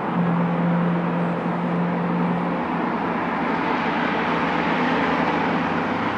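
Mitsubishi Pajero Mini's small four-cylinder engine heard through a Fujitsubo Legalis K aftermarket muffler while driving through a tunnel, a steady exhaust drone over road noise. About two and a half seconds in the engine note drops lower and the road noise rises.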